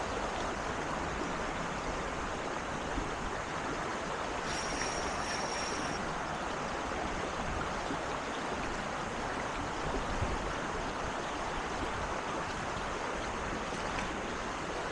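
Steady rush of shallow creek water flowing. A brief high-pitched steady tone sounds for about a second and a half about a third of the way in.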